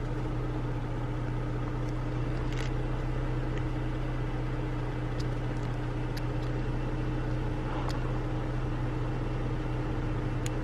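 Steady low hum of a vehicle engine idling, with a few faint clicks over it.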